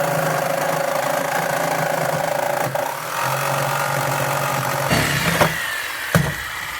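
Electric power saw cutting through a garage door panel, running steadily with a rapid chattering stroke and a few sharp knocks near the end.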